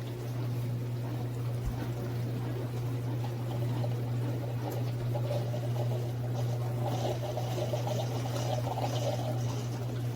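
Mecity single-serve coffee maker brewing: a steady pump hum under hot coffee pouring and trickling into the cup, with the gurgling growing stronger in the second half.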